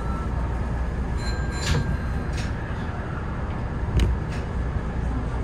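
Hanshin 9000 series electric train heard from the cab: a steady low rumble with a few sharp knocks, the loudest about four seconds in.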